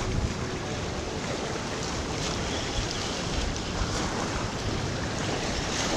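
Steady rushing of high, fast-flowing river water below a dam spillway after heavy rain, with some wind on the microphone.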